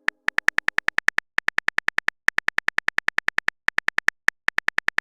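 Message-typing sound effect: a rapid run of short, identical high electronic beeps, about ten a second, in bursts broken by brief pauses.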